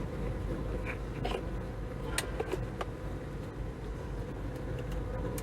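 A steady mechanical hum with a faint held tone, under a few light clicks of the car vacuum cleaner's plastic parts being fitted back together.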